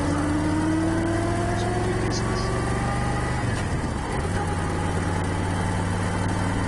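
Motorcycle engine running under way, its pitch rising as it accelerates for about three seconds. There is a brief dip, like a gear change, about three and a half seconds in, and then it runs steadily.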